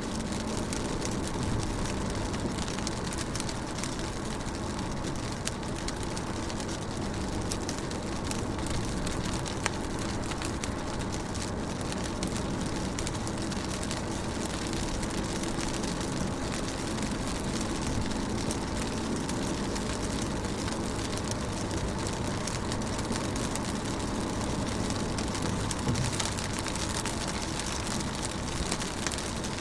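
Rain pattering on a car's windows and body, heard from inside the cabin as a steady hiss full of fine drop ticks, with a steady low hum underneath.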